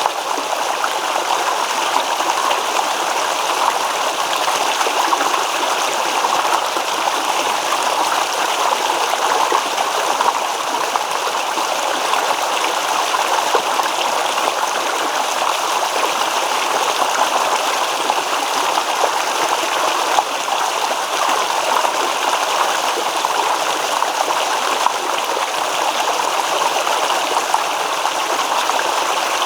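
Small stream babbling over stones, a steady, even rush of water.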